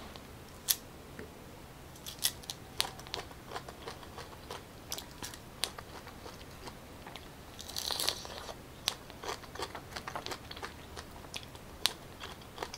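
Fresh pineapple being bitten and chewed: irregular juicy crunches and wet mouth clicks, with a longer, denser juicy crunch about eight seconds in.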